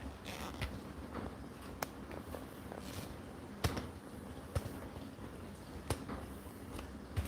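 A few sharp clicks and knocks, a second or so apart, against quiet room noise.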